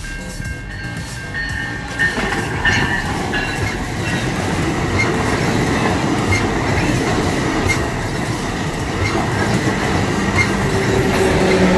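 Commuter train of bilevel coaches running past on the rails, with wheel and rail rumble and faint repeated clicks. It is quieter for the first couple of seconds, then grows louder as the coaches come by, and the locomotive pushing at the rear passes near the end with a low steady hum.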